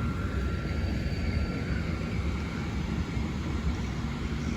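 Class 73 locomotive on the test train running with a steady low rumble, with a faint steady whine above it.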